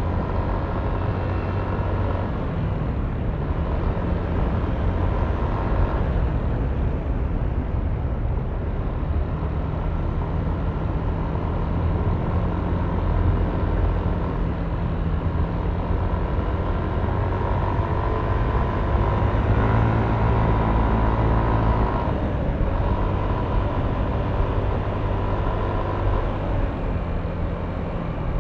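Yamaha Aerox V3 scooter's 155 cc single-cylinder engine running under way. Its note is steady, then rises and grows louder for a few seconds past the middle before easing off suddenly.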